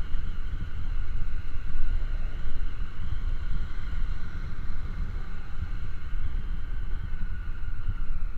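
Wind rushing over the microphone while a 70 cc single-cylinder motorcycle engine runs steadily under way on the road.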